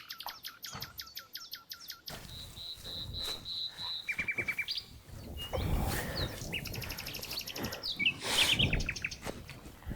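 Wild birds singing, with quick runs of short chirps and a high trill. Two louder stretches of noise, each about a second long, come in near the middle and near the end.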